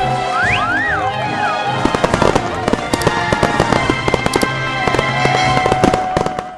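Background music with a cartoon fireworks sound effect. Whistling glides rise and fall in the first second and a half, followed by a long run of rapid crackling pops.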